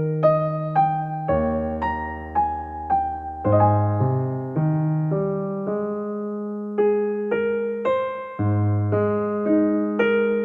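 Soft background music: gently played electric piano notes and chords.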